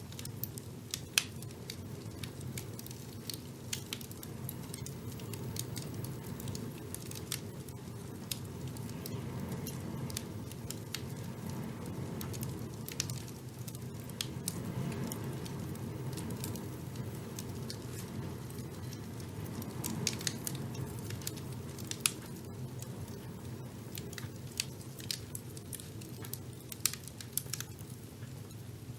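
Wood fire burning in a fireplace: sharp crackles and pops at uneven intervals over a steady low rumble of the flames.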